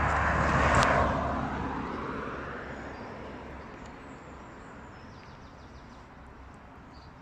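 A car driving past on the road, its noise building to a peak about a second in and then fading away over the next few seconds.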